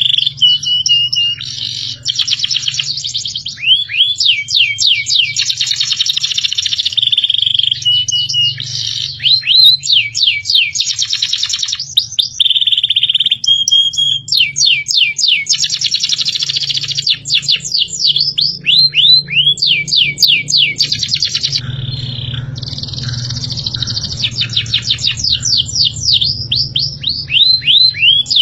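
Caged songbird song: continuous high-pitched trills and fast runs of repeated sweeping whistle notes, with brief held notes between phrases. A steady low hum runs underneath.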